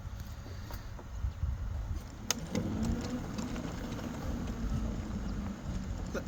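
A vehicle engine running near the street, a steady low tone coming in about two and a half seconds in, over a constant low rumble of wind and movement on the microphone. A sharp click sounds just before the engine tone comes in.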